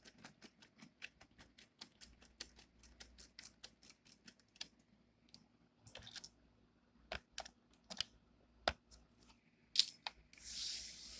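Light clicking and tapping as a laptop and its small parts are handled: a quick run of clicks for the first few seconds, then sparser, sharper clicks, with a short rustle near the end.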